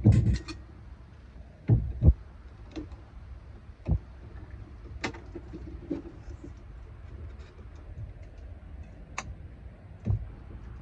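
Scattered knocks and taps, about seven in all, the loudest at the very start and around two seconds in, over a faint steady background.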